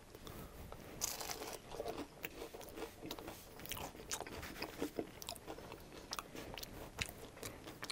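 Close-miked bite into a fried spring roll dipped in sweet and sour sauce: a crisp crunch about a second in, then chewing with many small crunchy clicks.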